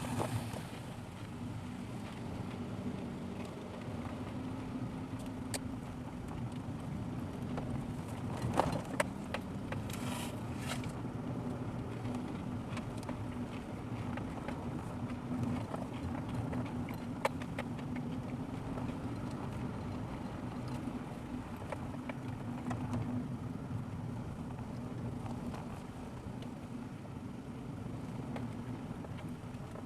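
Car driving, heard through a dashboard recorder in the cabin: a steady engine and tyre drone, with scattered clicks and knocks from the road, a cluster of them about a third of the way in.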